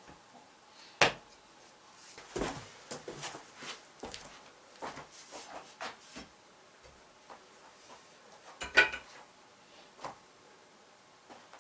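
Irregular wooden knocks and clatter, with a few sharper bangs: a sharp one about a second in, a loud one near nine seconds in, and lighter clicks and rattles between.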